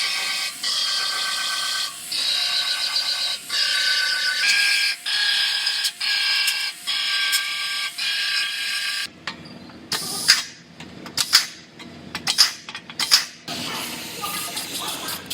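An air-powered cutting tool buzzes through sheet metal in runs of about a second, stopping and starting about eight times. It is followed by several sharp metal knocks and clicks.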